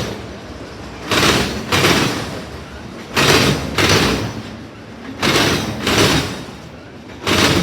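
Freight train cars rolling past, their wheels clacking over a rail joint: two knocks in quick succession, repeating about every two seconds.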